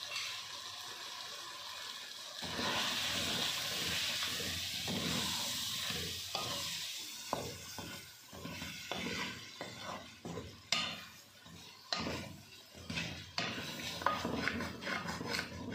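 Chicken pieces sizzling in oil in a metal pot. From about six seconds in, a wooden spoon stirs and scrapes them around the pan in a run of short strokes.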